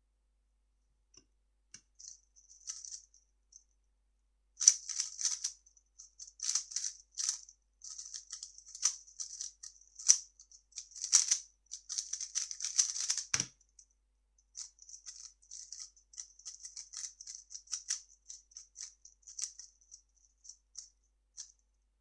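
A 3x3 speedcube being turned fast: rapid runs of light plastic clicks as its layers snap round, in bursts with short pauses. One dull thump comes about two-thirds of the way through.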